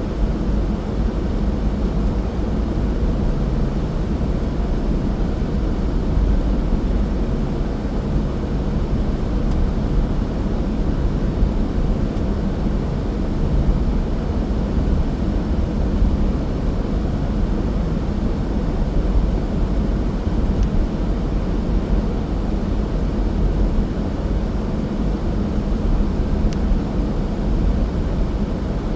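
Car driving at a steady speed: a steady low rumble of engine and road noise.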